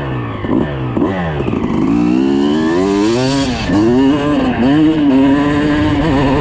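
Suzuki RM250's single-cylinder two-stroke engine revving: quick rises and falls in pitch several times, then a longer climb, a dip about halfway, and a steadier high note near the end.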